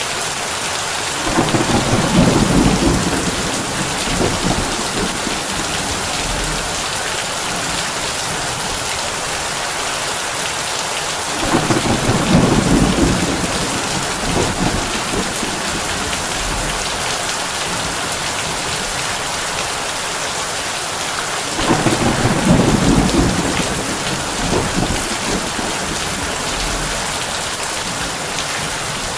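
Heavy rain falling steadily on a tin roof. Three rolls of thunder come about ten seconds apart, each rumbling for a couple of seconds before fading back into the rain.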